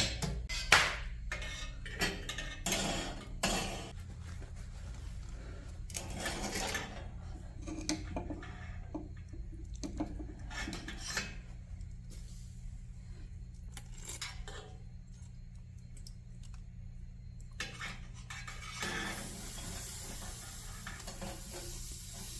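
Metal cookware and utensils clinking and scraping: sharp clinks close together at first, then sparser knocks. A steady hiss comes in near the end.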